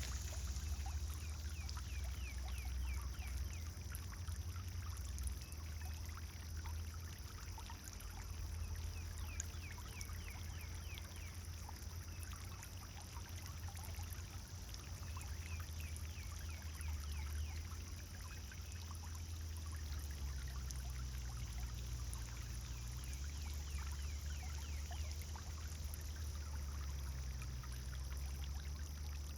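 Pond fountain water splashing and trickling steadily over a constant low rumble, with birds chirping in short runs of quick notes.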